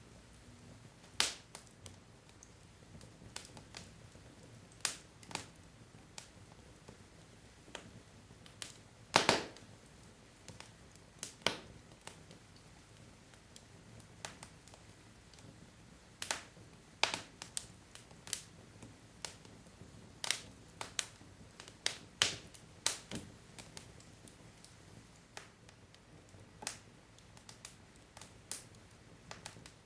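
Wood fire crackling: irregular sharp snaps and pops from burning logs, a few louder ones among many faint ticks, over a low steady hiss.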